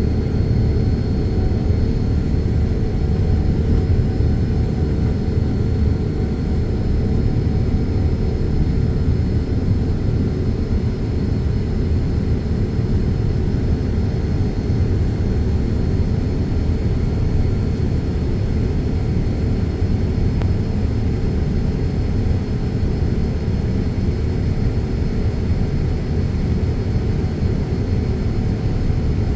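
Steady low rumble of a Boeing 787-9 Dreamliner's Rolls-Royce Trent 1000 engines and rushing air, heard from inside the cabin, with a few faint high whines above it.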